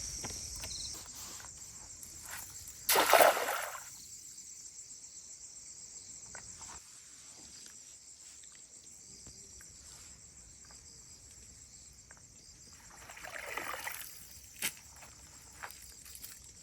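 Steady high-pitched chirring of crickets and other insects, with a loud rushing noise lasting about a second about three seconds in and a softer one near the end, plus a few light clicks.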